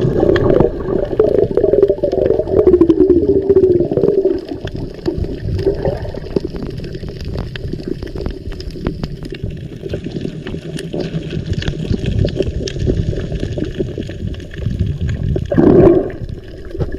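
Water sloshing and gurgling around a camera held underwater while snorkeling, with a low rumble and scattered small clicks. A wavering, muffled tone rises over it for the first few seconds and again briefly near the end.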